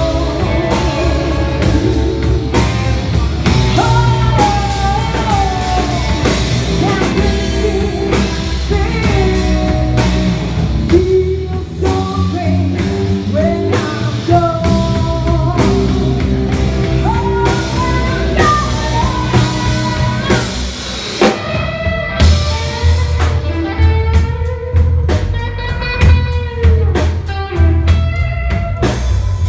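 Live blues band playing an instrumental break: a lead guitar solos with bent notes over bass and drum kit. About two-thirds of the way through the band drops back briefly, then comes in again with strong drum hits.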